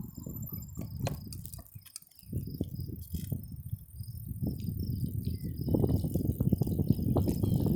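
Riding noise from a bicycle: a low rumble of wind and tyres that fades almost away about two seconds in, then builds louder toward the end. Over it, a run of short high chirps repeats about three times a second.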